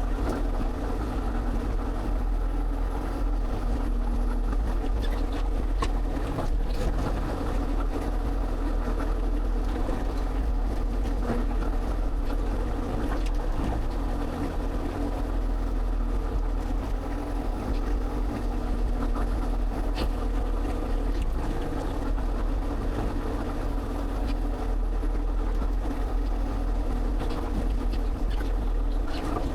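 Excavator's diesel engine running steadily, a constant low rumble with a few faint knocks over it.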